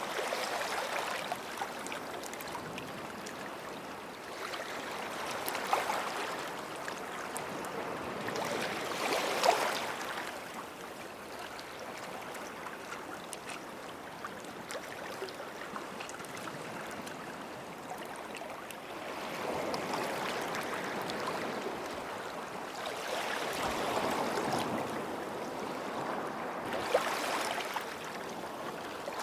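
Small sea waves washing in at the shoreline: a steady wash of water with several swells of splashing every few seconds, the loudest about a third of the way in.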